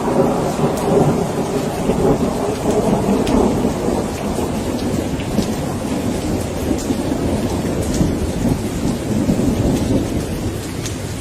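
Rain falling steadily with a long, low rumble of thunder, strongest in the first few seconds and slowly easing off. Scattered drops tick over the steady patter.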